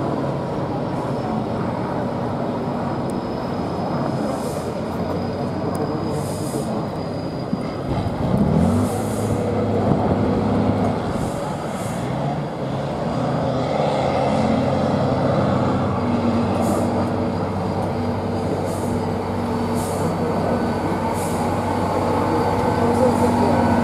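Heavy competition truck's engine running under load, revving up about eight seconds in and then holding a steady drone with smaller changes in pitch.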